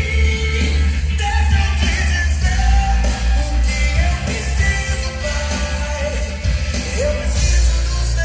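A song with singing played loud through a line-array PA system with 18-inch subwoofers, the bass very heavy and steady under the vocal melody.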